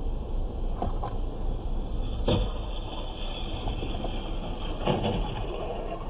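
Steady road and engine rumble of a moving car, heard from a dashcam-style recorder, with a few brief knocks, the sharpest about two seconds in.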